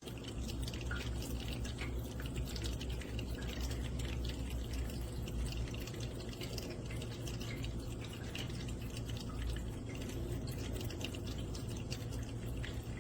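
Cat water fountain with a failing pump: water dripping and trickling from the spouts in many small irregular drops instead of streaming out, over a steady low hum.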